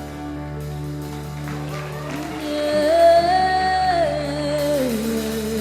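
Live worship band holding a sustained chord, with a singer coming in about two seconds in on one long drawn-out note that rises and then falls.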